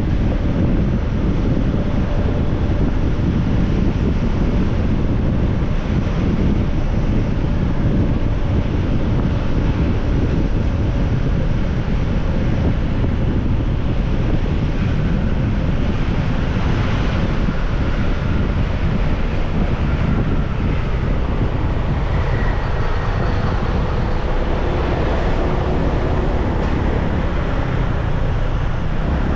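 Steady wind rush buffeting the microphone of a moving motorbike, with road and engine noise underneath.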